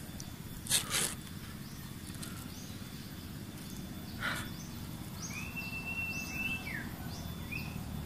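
Wild birds calling: a string of short high chirps and one held whistle that falls away at its end, in the second half. Brief rustles of branches and leaves come about a second in and again near the middle.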